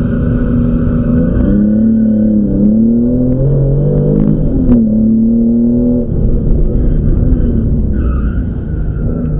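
Porsche 911 flat-six engine under racing load, heard from inside the cabin, its pitch holding, climbing and dropping several times as the car accelerates, lifts and shifts through the bends. A couple of sharp clicks come about halfway through.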